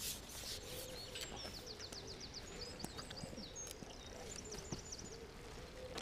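A small songbird singing quick series of high chirps and trills, starting about a second in and stopping near the end, faint against outdoor background hiss, with a few soft clicks.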